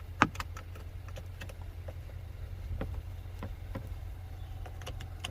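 Light metallic clicks and taps from jumper cable clamps being handled and touched to battery terminals, with no spark or power. Two sharp clicks come at the very start, then scattered softer ticks over a steady low hum.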